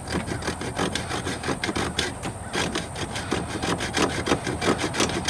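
Hacksaw cutting through a metal transmission cooler line in quick, even back-and-forth strokes, about three to four a second.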